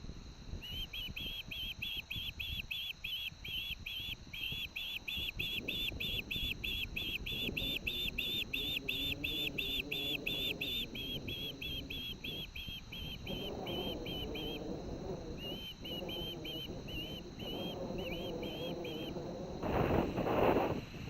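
Osprey calling a long run of short, high whistled notes, about three or four a second, that slows and breaks up in the second half. Wind buffets the microphone throughout, with a strong gust near the end.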